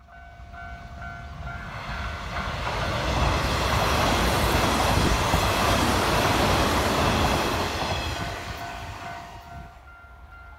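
A Hanshin electric train passing at speed. Its wheel and running noise builds over about three seconds, stays loud for about five seconds while the cars go by, then fades away.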